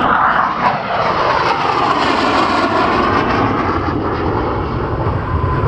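Display jet aircraft flying past, its engine noise loud and steady, with the pitch sweeping slowly as it passes.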